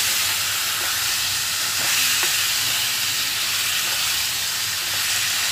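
Liver pieces and onions sizzling in a hot frying pan while a wooden spatula turns them over, with a few light scrapes of the spatula against the pan.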